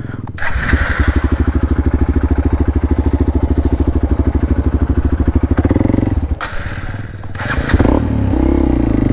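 Motorcycle engine running under load with a fast, even pulsing beat, as the bike is worked through deep mud; it falters about six seconds in, then picks up and runs steadily again.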